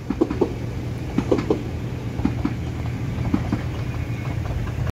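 Koleje Śląskie electric multiple unit passing over a level crossing, its wheels clacking over the rail joints in quick pairs about once a second, over a steady low engine hum.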